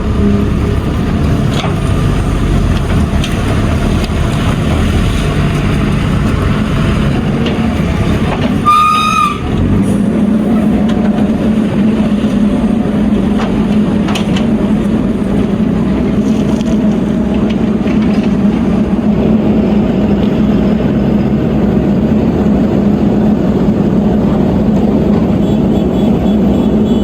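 Heavy diesel machinery engine running steadily, with a short high horn-like tone sounding once about nine seconds in.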